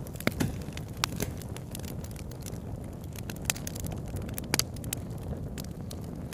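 Campfire crackling, with irregular sharp pops and snaps over a steady low rush of river water.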